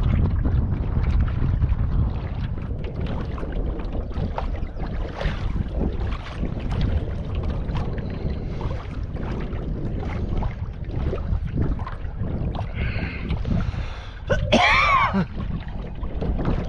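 Wind buffeting the microphone and water sounds from a kayak on the river, with one short rising-and-falling high call about fourteen and a half seconds in.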